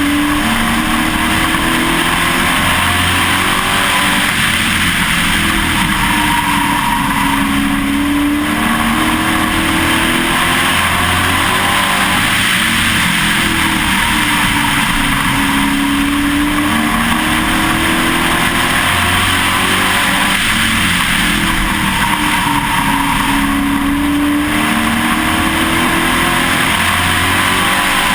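Pro Truck race truck's engine heard from on board, its pitch rising and falling over and over every few seconds as it accelerates down the straights and lifts for the turns of a short oval.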